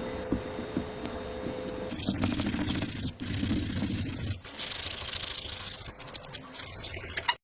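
Sanding and rubbing on a workpiece, a scratchy, gritty noise that changes abruptly several times as short clips follow one another.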